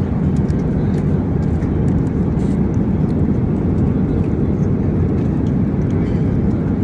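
Jet airliner cabin noise in flight: a steady low rumble of engines and airflow, with a few faint clicks over it.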